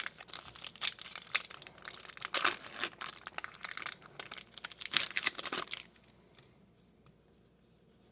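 A trading-card pack wrapper being torn open and crinkled, a dense crackling that stops suddenly about six seconds in.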